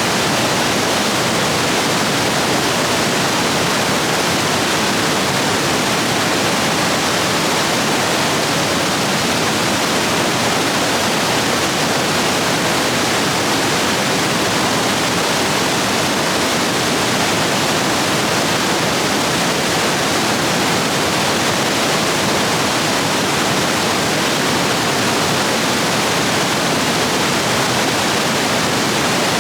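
Rapids running high after heavy rain, a steady, full rush of water.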